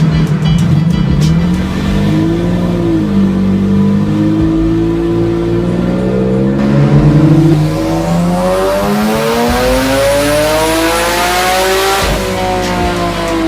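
Turbocharged Nissan 370Z VQ37 V6 engine, with a short blip of revs, then one long pull climbing steadily in pitch with growing rushing noise. Near the end the revs drop suddenly and fall away.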